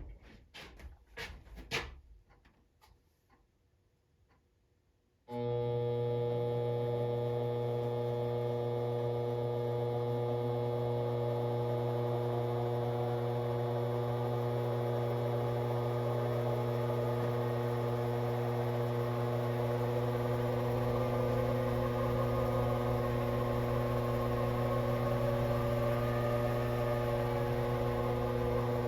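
A few light clicks and knocks, then about five seconds in a motor switches on and spins a compressed-air engine's eccentric drive for a balance test, running with a steady hum.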